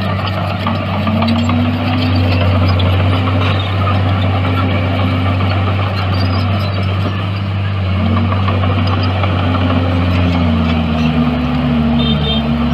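Heavy earthmoving diesel engines running loud and continuously, one engine note dipping and rising repeatedly as the load changes over a steady low hum. About two-thirds of the way through the low hum shifts and a second engine tone joins in.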